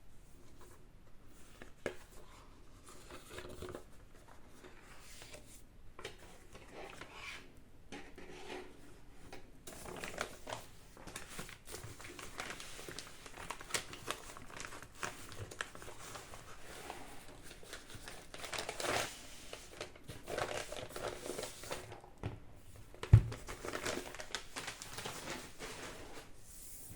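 Paper crinkling and rustling as it is handled, in irregular bursts, with one sharp knock about two-thirds of the way through.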